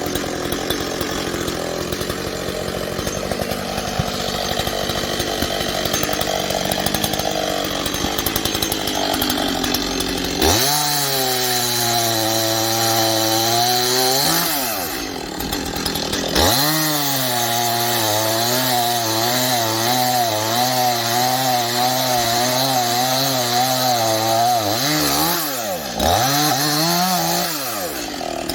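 Two-stroke chainsaw running: a rough lower run for about ten seconds, then revved hard to full throttle and let back down. It revs again and is held at high speed for about nine seconds with its pitch wavering under load as it cuts wood, then drops and revs once more briefly near the end.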